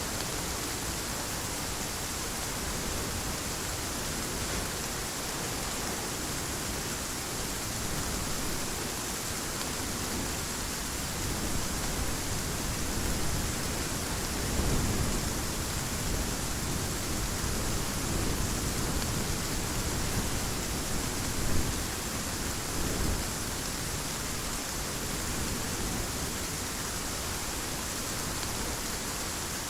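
Heavy rain falling as a steady hiss, with low thunder rumbling up and fading in the middle stretch and one short, sharper clap about two-thirds through.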